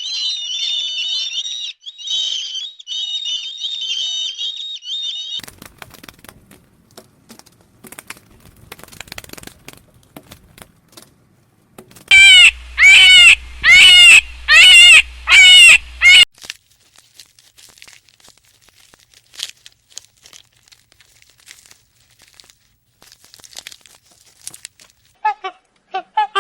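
A series of animal calls. A high, fast trill runs for the first five seconds, then comes scattered clicking and crackling, then six loud, harsh calls in quick succession about halfway through, and short calls again near the end.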